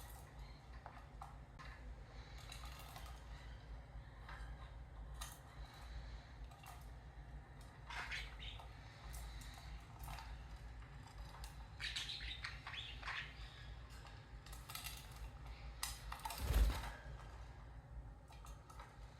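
Pet parrots chirping on and off, with scattered small clicks over a low steady hum, and one louder thump about sixteen seconds in.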